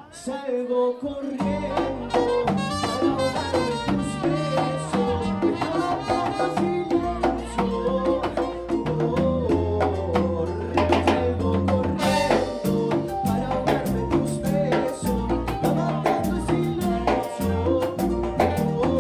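Salsa-style Latin dance-band music with brass and drums; the full band with bass comes in about a second and a half in.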